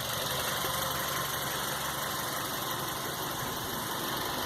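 Hyundai i30's 1.6 16-valve flex engine idling steadily. The engine has an intermittent misfire that has been traced to a bad spark plug.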